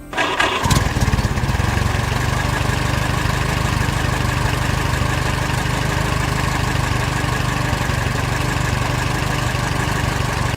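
An engine starts up about half a second in and runs steadily at idle, then cuts off abruptly.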